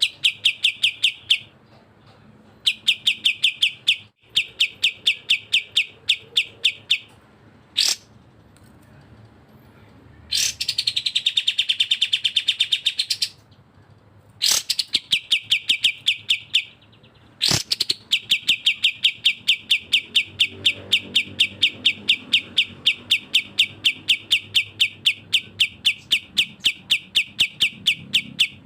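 Bulbul song (cucak jenggot or kapas tembak): rapid rattling trains of sharp, high chirps, about ten a second. It comes in bursts of a second or two, then runs unbroken through the last ten seconds.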